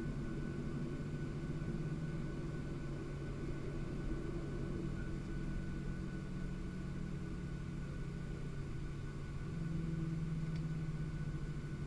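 Steady drone of a Boeing 737-700 with its CFM56-7B engines, heard on board the aircraft: a low hum under a thin, steady whine and a hiss of airflow, with no change in pitch.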